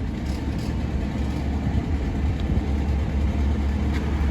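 Large diesel engine idling steadily with a low rumble.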